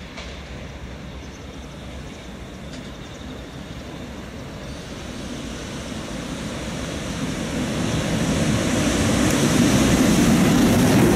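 JR Freight EH500 'Kintaro' electric locomotive approaching at the head of a freight train, its running noise and the sound of wheels on rail growing steadily louder until it passes close by near the end.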